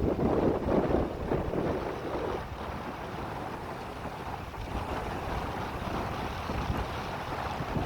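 Wind gusting against the microphone in a snowstorm: a noisy rush that is strongest in the first couple of seconds, then eases to a steadier, lower level.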